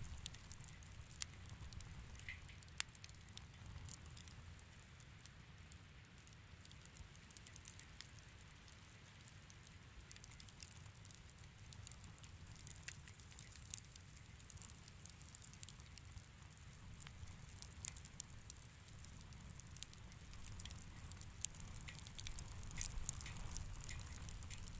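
Wood fire crackling softly in a fireplace: scattered sharp pops and snaps over a steady low rumble, coming a little thicker and louder near the end.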